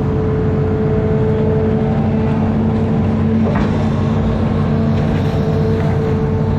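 Amphibious excavator's diesel engine running steadily under load, a low drone with a steady whine above it and a faint knock about three and a half seconds in.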